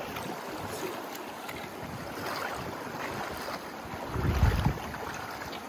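Steady rush of river water flowing over rocks, with a short low buffeting rumble of wind on the microphone about four seconds in.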